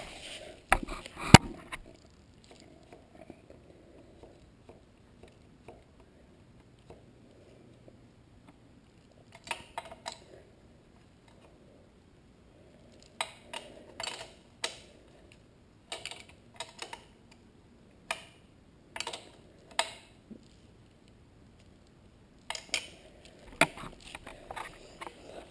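Hand wrenches clinking against the chain-adjuster bolts and lock nuts on a dirt bike's swingarm as the nuts are tightened, in scattered clusters of sharp metallic clicks and taps with quiet gaps between.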